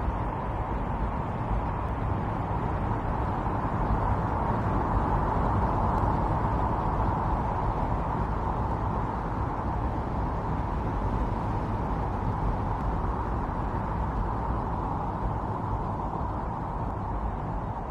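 Strong wind blowing in a snowstorm: a steady rushing noise with a low rumble beneath, swelling slightly a few seconds in and easing a little near the end.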